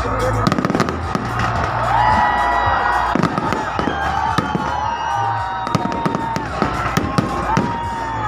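Fireworks going off in rapid succession, a dense run of bangs and crackles, over music with a heavy bass line. A few long whistling tones rise and then hold, near 2 s, around 4 to 5 seconds in, and again near the end.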